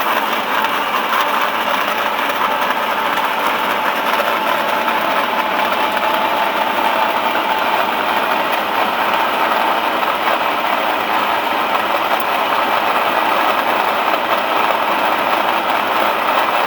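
Electric 160-type feed pellet mill running steadily under load, pressing crushed corn stalks into pellets: an even, loud mechanical hum with a steady whine through it.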